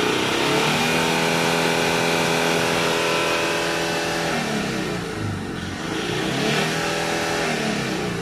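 Car engine revved while parked in neutral with no load. It is held at a steady raised speed for about three seconds, lets down about halfway through, then is revved up again and drops near the end.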